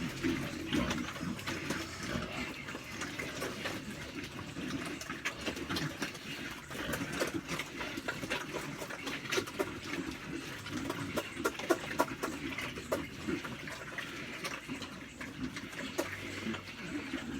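Pigs eating wet feed from a trough, a steady jumble of wet slurping and smacking with many short clicks.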